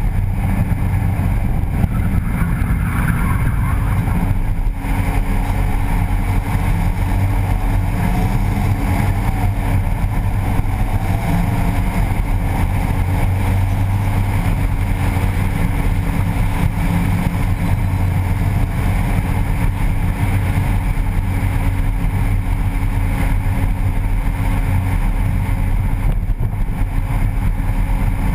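BMW E30 drift car's engine running at a fairly steady pitch, heard close-up from the open engine bay beside its open cone air filter.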